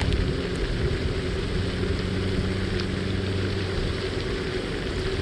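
A steady motor drone, a constant low hum of several even tones over a broad rushing noise.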